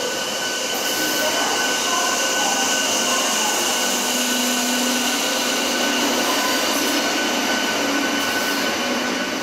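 Electric MEMU train rolling past along the platform as it pulls out: a steady rumble of wheels on rail with a steady high whine running through it.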